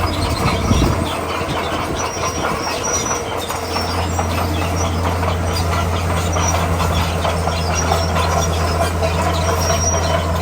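Komatsu D41P crawler bulldozer working: its diesel engine runs under load with a steady low drone while the steel tracks clatter and squeal as it pushes rock.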